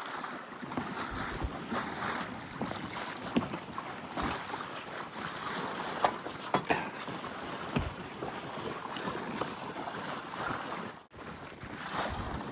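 Water rushing and splashing along the hull of a Freedom 28 sailboat under sail, with wind on the microphone and irregular sharp slaps of small waves. The sound drops out for an instant near the end.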